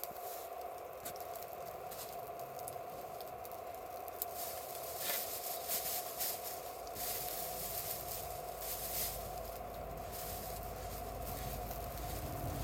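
Wood campfire crackling with scattered sharp pops, with a few louder rustling bursts in the middle and a low rumble building in the second half.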